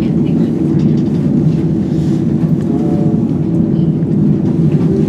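Steady low rumble inside the Sandia Peak Tramway's aerial tramway cabin as it travels along its cables.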